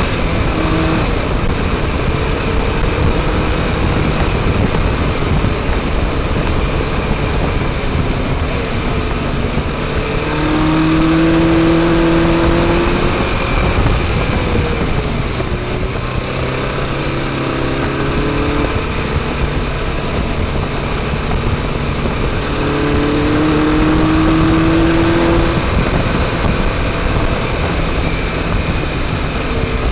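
Motorcycle engine running under way, its pitch rising twice as it accelerates and dropping back in between, over a steady rush of wind noise.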